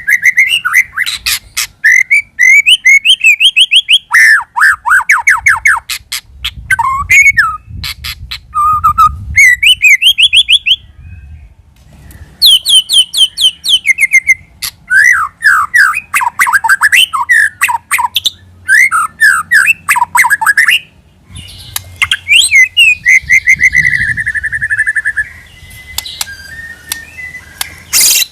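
White-rumped shama (murai batu) singing loudly in quick phrases of repeated sweeping whistled notes and rapid trills, broken by short pauses.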